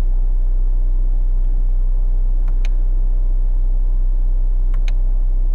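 Ford Mustang's 2.3-litre EcoBoost turbocharged four-cylinder idling steadily at about 930 rpm, heard from inside the cabin as a low, even rumble. Two faint clicks come in the middle.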